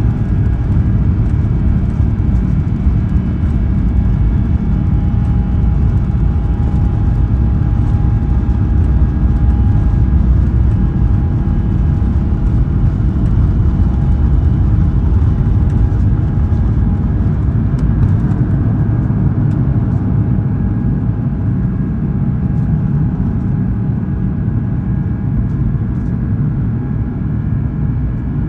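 Airbus A350-900 cabin noise during takeoff: the steady roar of the Rolls-Royce Trent XWB engines at high thrust and the rush of air over the fuselage, with a few faint steady tones on top. It eases slightly in the last several seconds.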